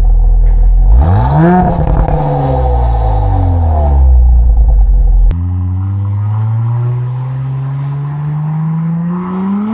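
Audi S5 Sportback's V6 with an aftermarket downpipe and RS exhaust, idling, then revved in a quick blip that climbs and falls away. After an abrupt cut, a longer pull follows with the revs climbing steadily under acceleration.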